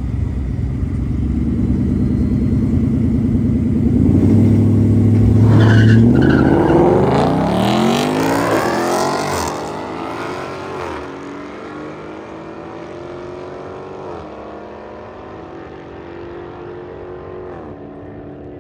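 Drag car engine running loud on the line, then launching about six seconds in and accelerating away down the strip, its note climbing and dropping back at each upshift, three times, as it fades into the distance.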